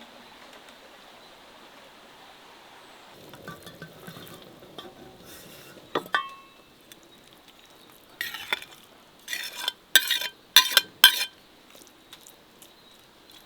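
A metal utensil working in a cooking pot: a faint hiss at first, a ringing clink about halfway through, then several short, loud scraping strokes near the end.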